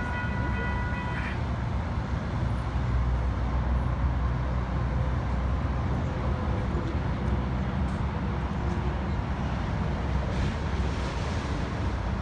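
ASC electronic railroad crossing bells ringing, cutting off about a second in once the gates are fully down. A steady low vehicle rumble follows.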